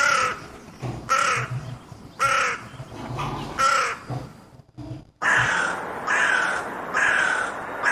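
Crows cawing: about four harsh caws a second or so apart, then after a short pause a run of longer caws in quicker succession.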